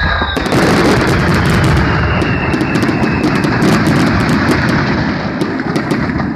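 Fireworks barrage: many shells bursting in quick succession, a continuous rumble of explosions under dense crackling, easing off near the end.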